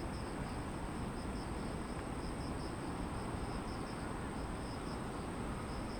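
Grass insects chirping: one steady high trill and an uneven pulsing chirp a little lower, over the steady low hum of distant city traffic.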